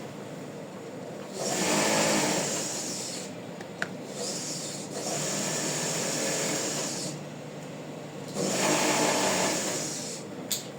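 Electric sewing machine running in three bursts of a couple of seconds each, with short pauses between, and a sharp click or two in the gaps.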